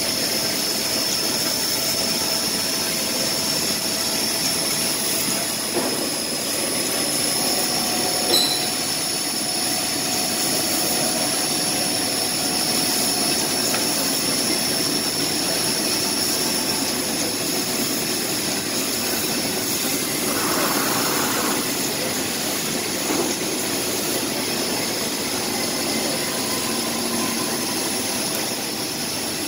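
Laser cutting machine cutting a metal fireplace door: a steady hiss with a constant high-pitched whine, and a short sharp pop about eight seconds in.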